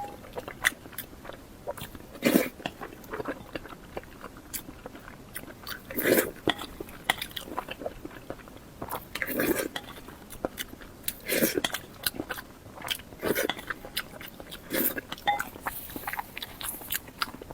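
Close-up chewing and biting of food, with many small wet mouth clicks and a louder bite every two to three seconds.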